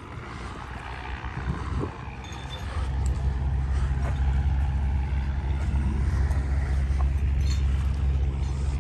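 A motor vehicle's engine running steadily close by, a low rumble that swells about three seconds in and holds.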